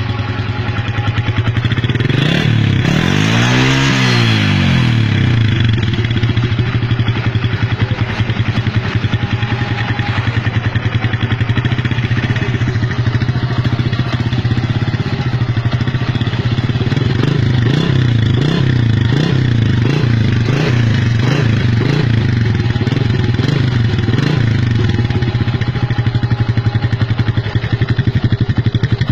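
Yamaha Jupiter MX 135 single-cylinder four-stroke engine running through an aftermarket exhaust, idling steadily. The engine is revved up and back down once a few seconds in, then blipped quickly several times over the middle of the clip.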